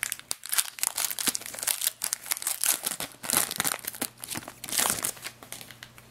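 Foil wrapper of a hockey card pack being torn open and crinkled by hand, a dense irregular crackle that dies away near the end.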